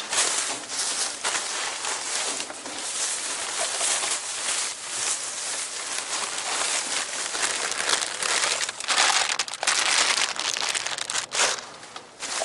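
Plastic bags and trash crinkling and rustling as they are pulled out and rummaged through by hand, in an uneven run of crackles.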